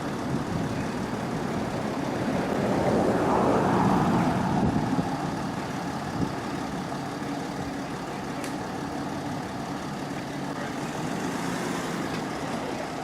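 A motor vehicle driving past, growing louder for a couple of seconds and then fading back into a steady background of running engines.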